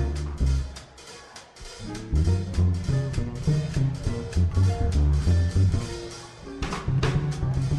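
Live swing-jazz band playing an instrumental, with upright bass, drum kit and guitar carrying the rhythm. It is sparser for the first two seconds, then fills out, with a loud accent about seven seconds in.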